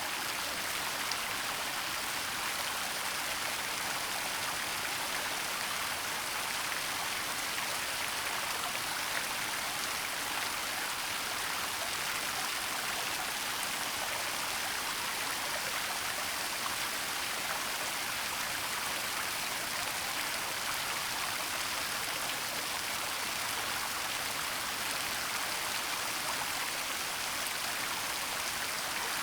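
Waterfall falling steadily, an even, unbroken hiss of water.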